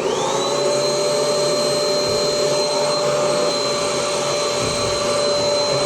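Bush vacuum cleaner switched on: its motor whines up to speed over about half a second, then runs steadily as it sucks built-up lint out of a tumble dryer.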